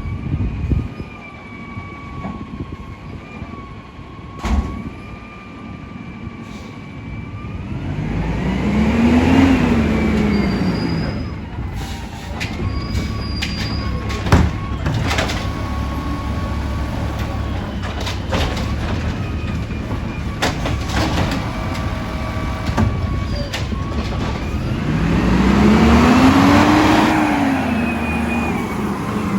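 Garbage truck's diesel engine revving up and back down twice to drive its hydraulics, with metallic clanks and knocks between the revs.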